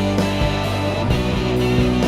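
Background music: an instrumental rock track led by guitar, with a steady beat.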